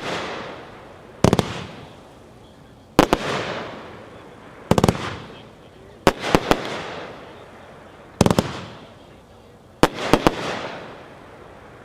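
A multi-shot firework cake ('Fireflies' by Neon Fireworks) firing a shot about every one and a half to two seconds, some as quick doubles or triples. Each sharp report is followed by a hissing tail that fades over about a second.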